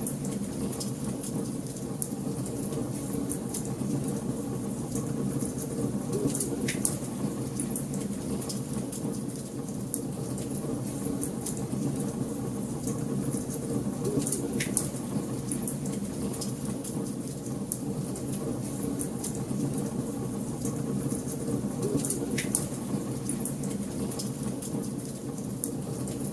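Wood fire burning in a fireplace: a steady low rush of flames with constant small crackles and a few sharper, louder pops, roughly one every seven or eight seconds.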